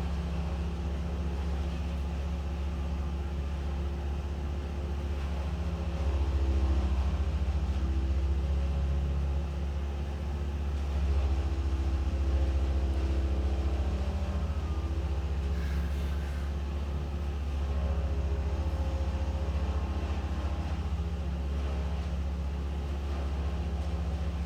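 An engine running steadily, its pitch and loudness shifting a little a few times.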